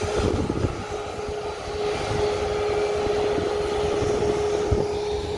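Boeing 737 jet engines running at idle: a steady single-pitched whine over a low rumble.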